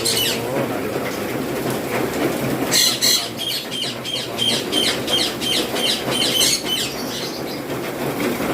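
Ringneck parakeet giving a rapid series of sharp, high-pitched squawks, about three a second for roughly four seconds, starting about three seconds in.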